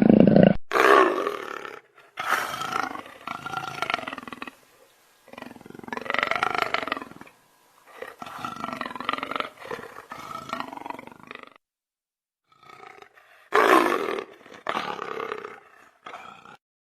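A big cat roaring in a series of about six calls, each one to three seconds long, with short pauses between them. The loudest calls come at the start and about two-thirds of the way through.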